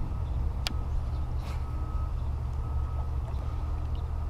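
Steady low rumble of wind buffeting the camera microphone over open water, with a single sharp click about a second in.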